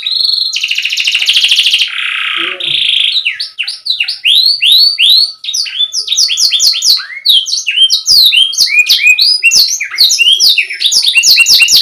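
Domestic canary singing a long, fast song of repeated quick rising notes, with a buzzy trill near the start.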